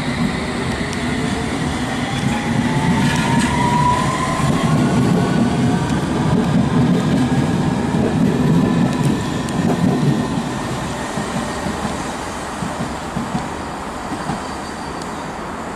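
Train passing on the main line, a whine from its motors rising steadily in pitch over several seconds above a rumble of wheels on rail. The rumble is loudest in the middle and eases off in the last few seconds.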